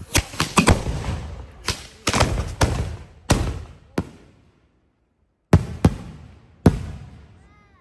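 Consumer fireworks going off: a rapid string of sharp bangs, each with an echoing tail, about a dozen in all, with a short lull around the middle.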